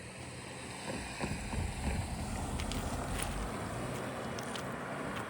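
Road traffic passing close by: a low rumble with tyre hiss that builds about a second in and eases off after about three and a half seconds, with wind on the microphone.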